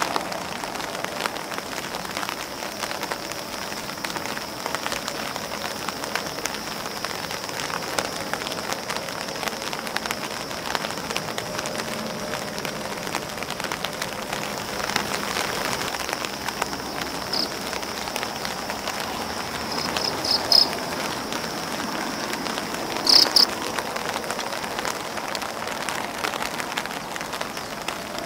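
Rain falling on an umbrella and on grass leaves: a dense, steady pattering of drops with a faint high steady note underneath. A few short, high chirps stand out about two-thirds of the way through, twice loudly.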